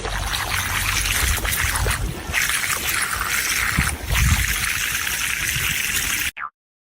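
Running water: a steady splashing rush that cuts off abruptly near the end.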